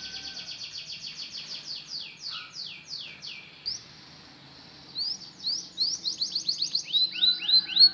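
Canary singing: fast runs of repeated high sweeping notes, a short lull about halfway through, then a trill of rising notes that speeds up near the end.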